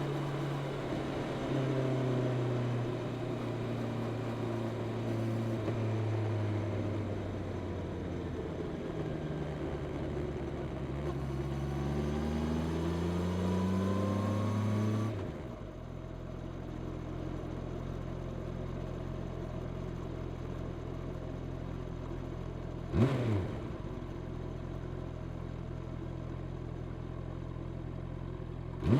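Honda CB650R's inline-four on its stock exhaust, first dropping in revs, then rising steadily under throttle for a few seconds. About halfway through it falls suddenly to a steady idle, with two short throttle blips, one late on and one at the very end.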